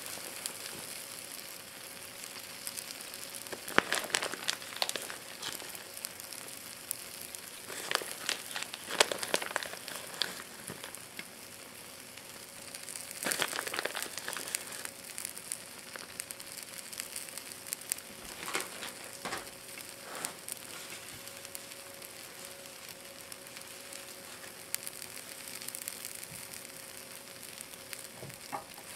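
Egg mixture with onion, spinach and ham frying in a pan: a steady sizzle, with bursts of crackling several times.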